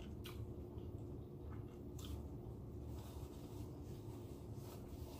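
Faint chewing of a mouthful of crunchy hard taco shell, with a few soft, scattered crackles. A paper napkin rustles near the end.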